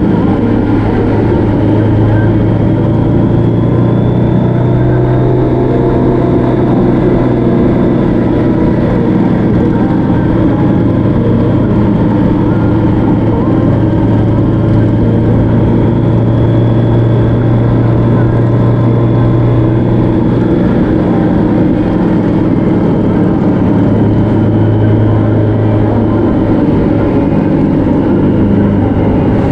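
Motorcycle engine running steadily at cruising speed, its pitch drifting slightly up and down, under a steady rush of road and wind noise.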